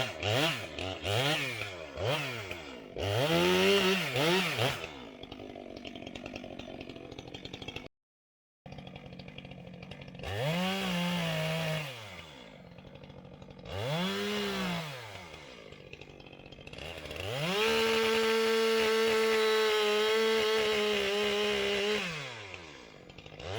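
Chainsaw engine revving in quick throttle blips and dropping back to idle, then held at full throttle at a steady pitch for about four seconds, as when cutting through a log during bucking, before falling back to idle near the end.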